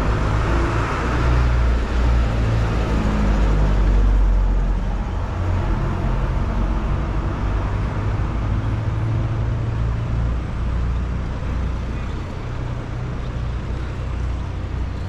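Street traffic: a vehicle passes close, loudest about four seconds in, then a steady traffic rumble continues.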